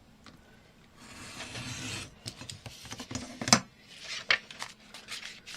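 Craft knife drawn through paper for about a second, a scratchy cutting stroke, followed by a run of short clicks and scrapes of paper and tools being handled, the loudest a sharp knock near the middle.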